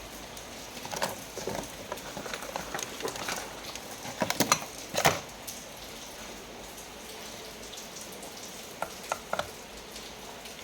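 A steady hiss with scattered clicks and taps. The loudest are a cluster of sharp knocks about four to five seconds in, with a few lighter clicks near the end.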